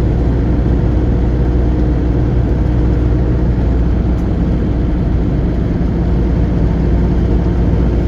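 Steady car driving noise heard from inside the vehicle: a low engine hum with road noise, unchanging throughout.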